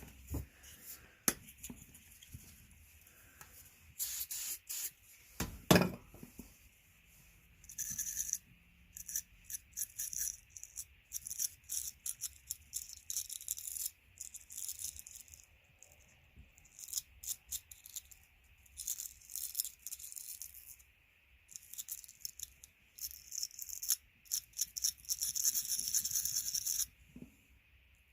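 Aerosol spray cans of starting fluid and WD-40 hissing in repeated short bursts, with a small brush scrubbing, while the idle air control valve is cleaned. The longest spray runs about two seconds near the end. A few knocks from the part and cans being handled come in the first few seconds.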